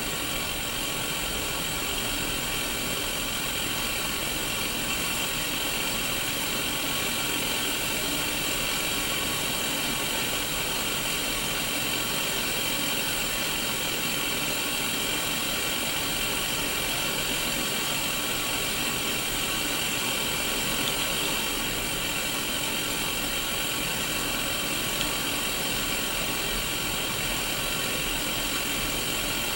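Steady static hiss from a Sony Mega Watchman mini black-and-white CRT television, unchanging throughout, strongest in the upper-middle range.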